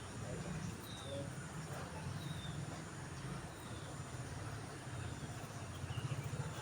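Faint short chirps of a small bird, each a quick downward slide, repeating about once a second over a low steady rumble.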